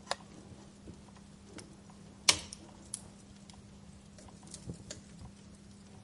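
Wood fire crackling: scattered small pops and ticks, with one loud, sharp snap a little over two seconds in.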